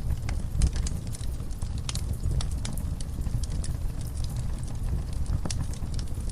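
Wood fire burning in a fireplace: irregular sharp crackles and pops of the logs over a steady low rumble of the flames.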